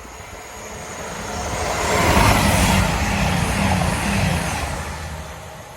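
Diesel passenger train passing at speed: its engines and wheels build to a peak about two seconds in, the engine note dropping in pitch as it goes by, then fading away.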